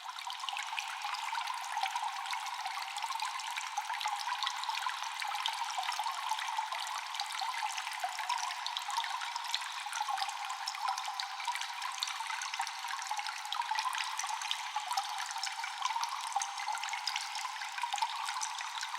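Water dripping and trickling in a cave, echoing: a steady wash of water noise studded with many small, quick drips.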